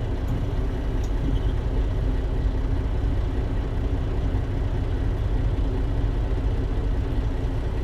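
Semi truck's diesel engine idling steadily, a low, even rumble.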